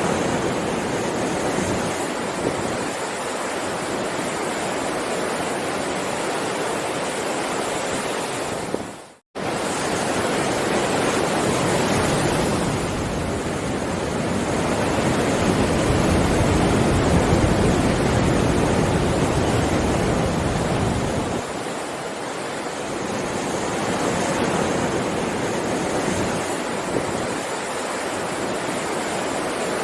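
Heavy sea waves: a continuous rushing wash of surf, swelling louder through the middle and falling away suddenly near two-thirds of the way in. The sound cuts out completely for a split second about nine seconds in, like an edit or loop splice.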